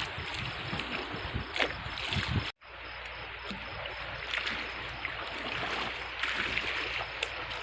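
Rushing floodwater of the Godavari River, a steady hiss of flowing water, with gusts of wind on the microphone. The sound cuts out abruptly about two and a half seconds in and resumes at once, steadier.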